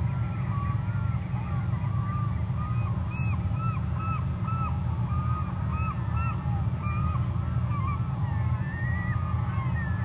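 Several birds calling in a rapid, overlapping series of short calls, each rising and falling in pitch, over a steady low rumble.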